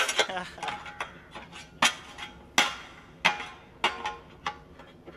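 Two shovels swung against each other, metal clanging on metal: a run of sharp clangs, each ringing briefly, coming about every two-thirds of a second and growing fainter toward the end.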